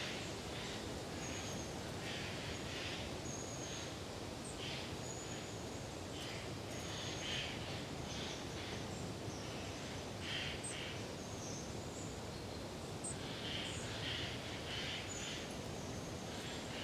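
Oriental tree frogs (Hyla orientalis) calling in repeated bursts of quick rasping notes, over a steady hiss of wind through the forest. Thin, high calls of long-tailed tits come in briefly between the frog bursts.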